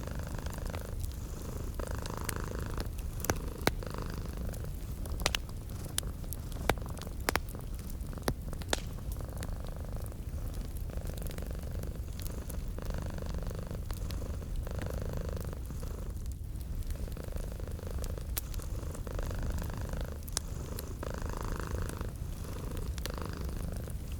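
A cat purring steadily, swelling and fading every couple of seconds, mixed with the sharp snaps and pops of a crackling wood fire.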